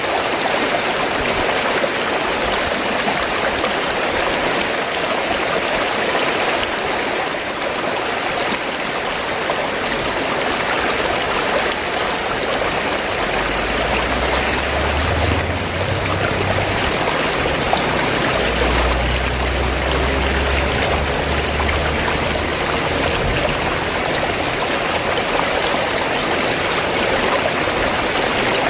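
Fast-flowing stream water gurgling and rushing steadily. For several seconds around the middle a low rumble runs underneath.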